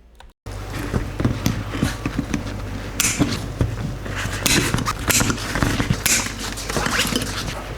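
Handling noise from a 3D-printed plastic saddle mount and collar being fitted: a run of light clicks, knocks and rustles, sharper around the middle, over a steady low hum.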